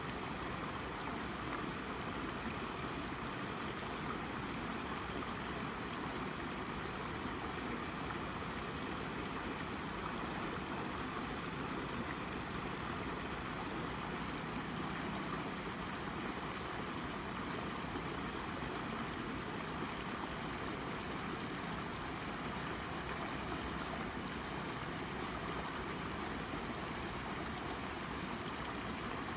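Shallow brook babbling steadily as water runs over and around a rock.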